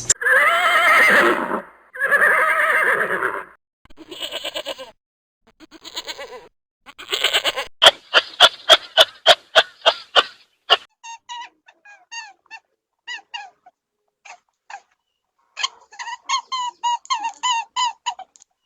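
A run of animal calls: two long, wavering pitched calls in the first few seconds, some fainter calls, then a rapid train of clicks and a long series of short repeated chirps.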